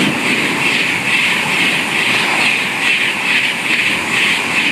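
Virgin Class 390 Pendolino electric train passing close by, a loud steady rush of wheels on rail and air, pulsing about twice a second as the carriages go by.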